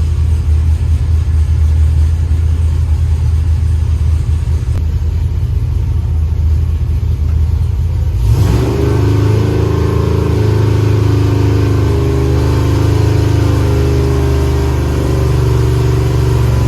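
Stroked 7.0-litre (427 ci) iron-block LS V8 running on an engine dyno: a steady low-speed run, then about eight seconds in it steps up quickly to a higher engine speed and holds there steadily.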